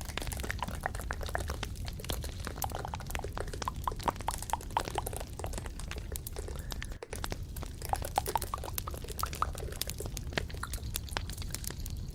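Close-miked ASMR trigger sounds: dense, irregular small clicks and crackles, with a brief break about seven seconds in.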